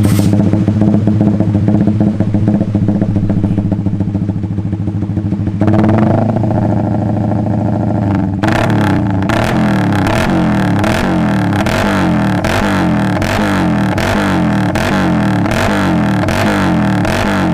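Suzuki GSX-R150's single-cylinder engine running through an aftermarket exhaust, idling steadily at first and getting louder about six seconds in. From about eight seconds in, a regular repeating beat runs with it.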